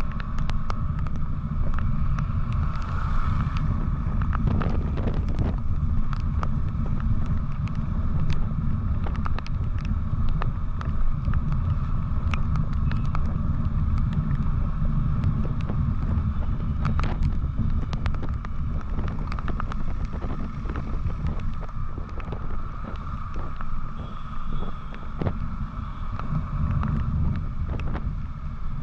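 Riding noise from a moving motorcycle: steady wind buffeting on the microphone over a low road and engine rumble, with many small knocks from the road surface.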